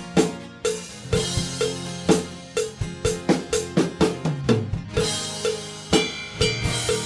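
Rock drum kit playing a steady beat, bass drum and snare hitting about two to three times a second, with other instruments sounding underneath and cymbals washing in near the end.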